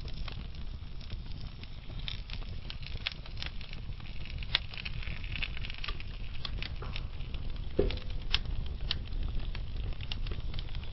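Wood fire burning slowly in a fireplace: a low steady rumble of flame with scattered sharp crackles and pops from the burning logs, a little busier in the middle, with the loudest pops near the end.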